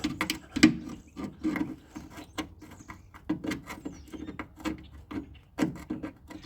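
Tool and hands scraping, clicking and knocking against sheet metal inside a car door, irregular and several times a second, with a hollow ring from the door cavity: fumbling blind at the door handle bolt behind the latch mechanism.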